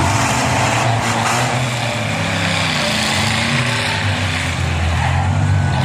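Truck engines running and revving in a demolition derby, the engine pitch rising and falling.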